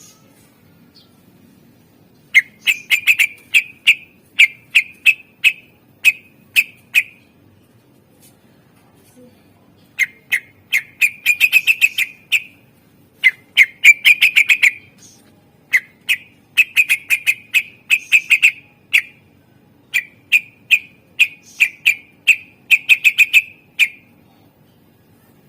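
Cucak ijo (green leafbird) singing: runs of sharp, rapidly repeated notes in short bursts, with a pause of a few seconds about a third of the way through.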